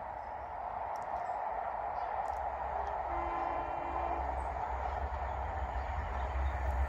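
Transport for Wales Class 197 diesel multiple unit approaching along the line, its rumble growing steadily louder. A short horn note sounds about three seconds in.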